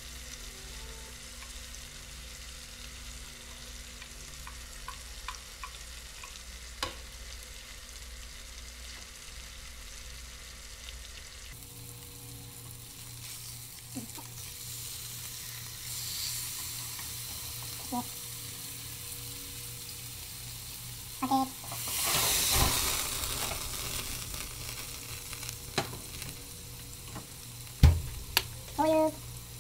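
Tuna steaks sizzling in oil with chopped garlic in a non-stick frying pan, a steady frying hiss with a few sharp clicks. A little past the middle the sizzle swells louder for about two seconds, and there is a strong knock near the end.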